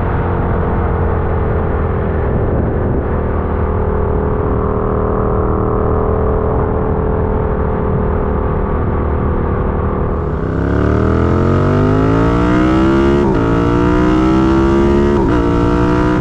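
Yamaha MT-07 parallel-twin engine with wind rush at riding speed. It holds a steady speed, then accelerates about ten seconds in, rising in pitch through two quick upshifts.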